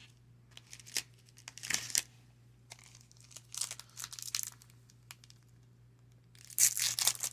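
Crinkling and rustling of a trading-card pack wrapper and cards being handled, in about four short bursts, the loudest near the end.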